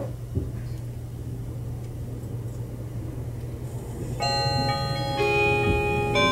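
Meitetsu 1200-series limited express train running, heard from inside the car as a steady low hum. About four seconds in, the onboard chime starts: ringing notes that change every second or so, the tune that introduces the automatic next-stop announcement.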